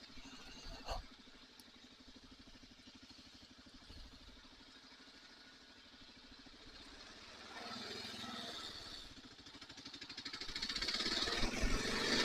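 Kawasaki KLR motorcycle's single-cylinder engine running on the road, faint and steady at first. It picks up briefly about eight seconds in, then gets steadily louder from about ten seconds as the bike accelerates.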